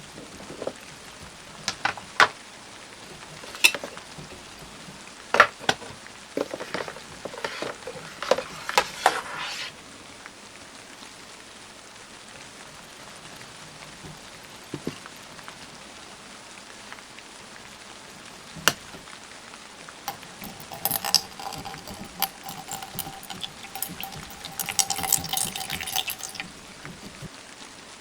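Sharp clicks and short bursts of scratching from hand tools working small plastic model-kit parts, over a steady faint hiss. The scratching comes in two stretches, one before the middle and a longer one near the end.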